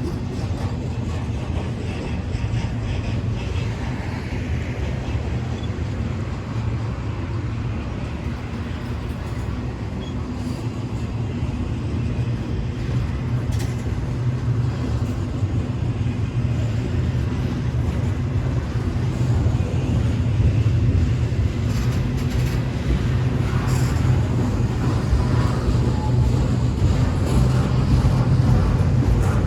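Intermodal freight train rolling past, a steady low rumble of wheels on rail that grows somewhat louder in the second half.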